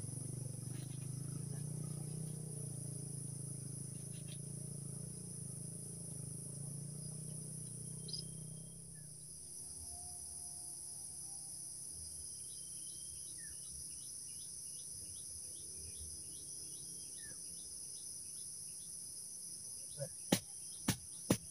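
Steady, high-pitched buzz of an insect chorus, with crickets. A low hum sits under it for the first half and drops away about nine seconds in, and a few sharp knocks come near the end.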